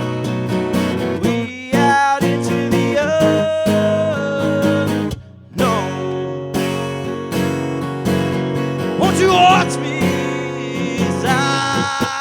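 Acoustic guitar strummed in a steady rhythm as an instrumental passage of the song, with a brief break about five seconds in.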